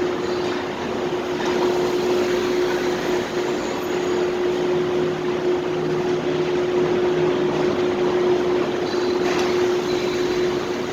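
Steady ambient noise of a supermarket parking lot: an even rush of machinery and traffic with a constant mid-pitched hum, and a lower hum joining for a few seconds in the middle.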